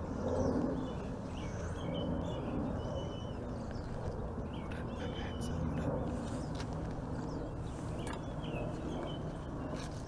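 Small birds giving short high chirps several times, over a steady low hum.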